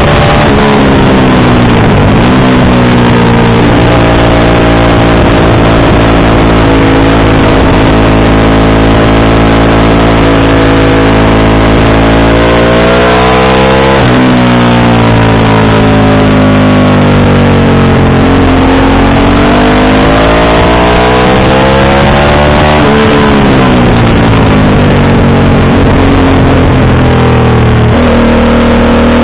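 Motorcycle engine and exhaust running under way, loud and steady, its pitch climbing and falling several times with sudden breaks at the gear changes.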